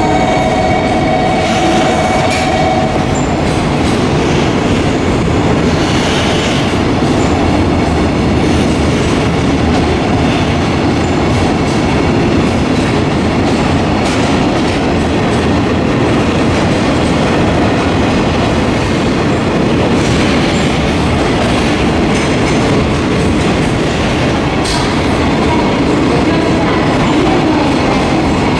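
Freight train of container flat wagons rolling past close by, a loud, steady rumble of steel wheels on rail. There is a brief steady whine in the first few seconds and occasional clicks.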